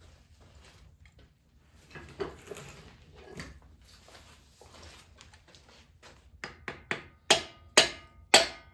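Quiet handling clunks and rustles of engine parts, then a series of about seven sharp knocks over the last two and a half seconds, each louder than the one before, while a cylinder head is fitted onto an air-cooled VW Beetle engine.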